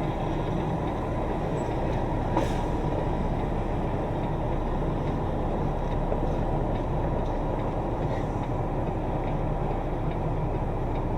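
Semi-truck's diesel engine running steadily at low speed while the rig is manoeuvred into a parallel parking spot, with a short click about two seconds in.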